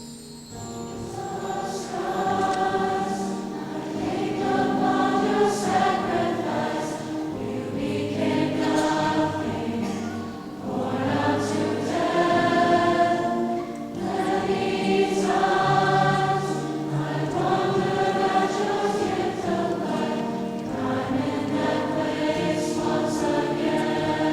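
A choir singing a worship song in long held phrases with brief breaks between them, coming in just after the start.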